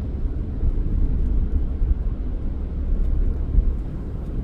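Steady low rumble of a car driving, engine and road noise with no distinct events.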